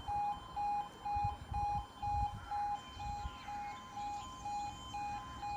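Railway level crossing warning alarm sounding, a repeating two-tone beep that alternates between a lower and a higher pitch about twice a second.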